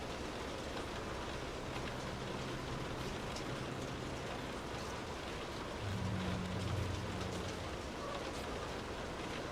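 Steady rain on a car, heard from inside, with scattered drops ticking on the bodywork. A low rumble swells briefly about six seconds in.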